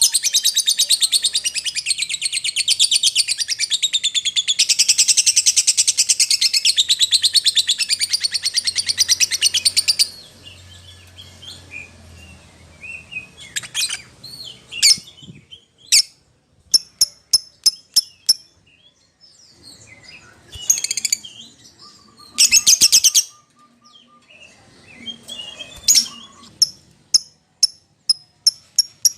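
Lovebird chattering in a fast, continuous high trill for about ten seconds, then giving short sharp chirps, scattered at first. There is a brief trilling burst about two-thirds through and a quick run of chirps near the end. It is a lovebird calling to a companion or rival.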